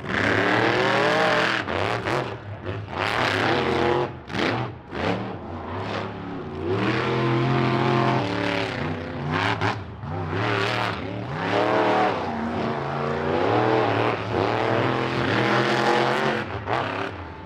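Monster truck engines racing at full throttle, revving hard and rising and falling in pitch, with several brief drops as the throttle is lifted.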